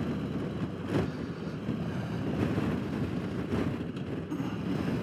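Wind rushing and buffeting over a motorcycle rider's helmet microphone while riding, with the motorcycle's running and road noise underneath; the rush swells a little now and then.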